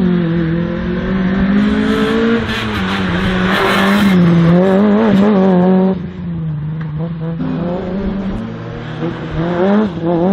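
Slalom race car's engine working hard through a cone course, its pitch rising and falling as the driver accelerates and lifts. It pulls hardest in the first half with a burst of hiss, drops off about six seconds in and climbs again near the end.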